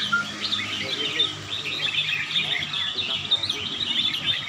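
Red-whiskered bulbuls chirping and singing, a dense overlapping chatter of short, quick high notes from several birds at once.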